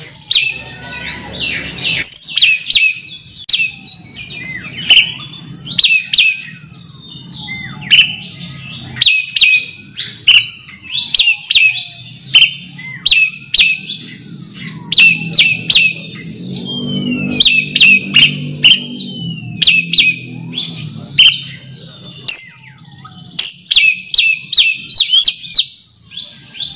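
Oriental magpie-robin singing its challenge song to a rival: loud, rapid bursts of sharp whistled and scratchy notes, repeated again and again with short breaks.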